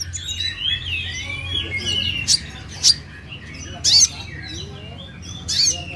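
Kolibri ninja (a sunbird) singing: a busy run of high twittering chirps and quick glides, broken by several short, sharp, loud notes, over a steady low hum.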